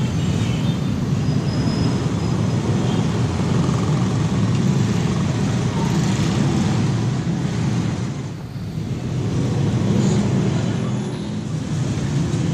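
Street traffic noise: a steady rumble of passing road vehicles, dipping briefly about eight seconds in.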